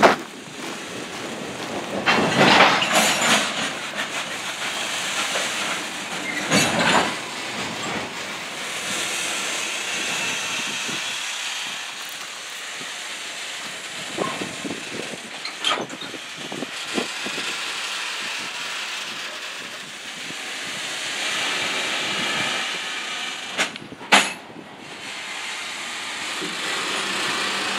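Freight train wagons rolling past at close range: a continuous rumble and hiss of steel wheels on the rails. A few louder knocks break through, the sharpest near the end.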